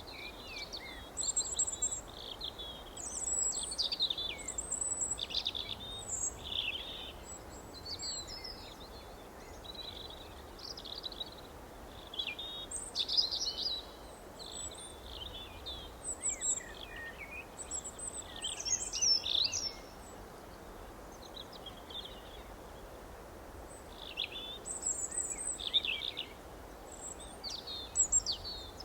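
Several songbirds chirping and singing in quick, high, overlapping phrases, with a faint steady background hiss.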